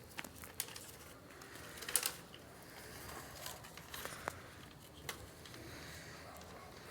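Handling noises: crinkly rustling with scattered small clicks and taps, the loudest about two seconds in.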